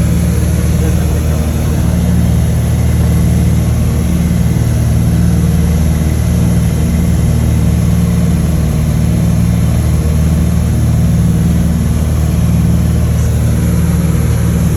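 Cessna 310K's twin six-cylinder Continental piston engines running steadily in a loud, even drone.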